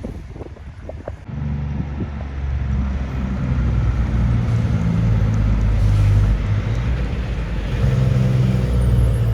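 Heavy truck's diesel engine coming closer, a low steady engine note that starts about a second in and grows louder, over wind noise on the microphone.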